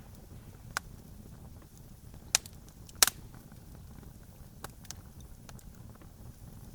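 Campfire crackling: a low steady rush with scattered sharp pops of burning wood, the loudest pair close together a little under halfway through.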